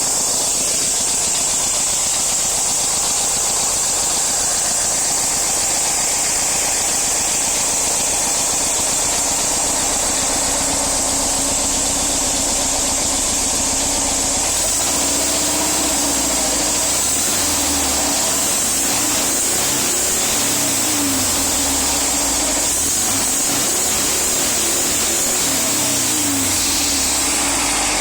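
VW Bus engine and exhaust running, with a steady high hiss over it. From about halfway in, the revs are blipped up and down several times.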